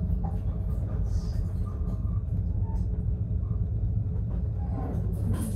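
Steady low rumble of a moving overnight sleeper train, heard from inside the carriage's shower cubicle.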